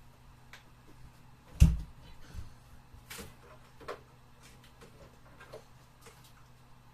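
Knocks and clicks of plastic parts being handled and fitted while setting up a portable spot air conditioner, played at double speed. One heavy thump comes about a second and a half in, followed by several lighter clicks and taps over a faint steady hum.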